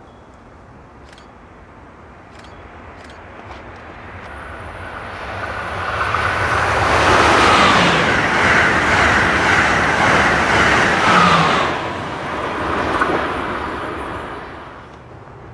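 Amtrak Acela Express high-speed electric trainset passing at speed on the near track. Its rush of wheels on rail and air swells over several seconds, peaks for about five seconds and dies away near the end, with a faint high whine over the loudest part.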